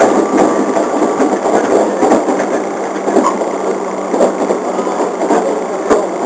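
Running noise heard inside a Tobu 1800-series electric train motor car at speed: a steady rumble from the wheels and traction motors, with a few sharp clicks from the track, the loudest near the end.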